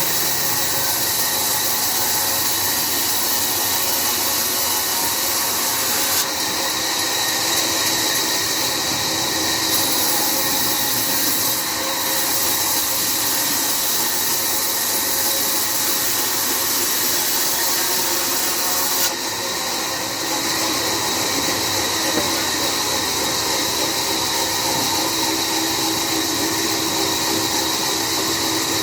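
Sawmill band saw running steadily, a continuous loud whining hiss as it cuts through a jackfruit log, with abrupt small shifts in the sound about six and nineteen seconds in.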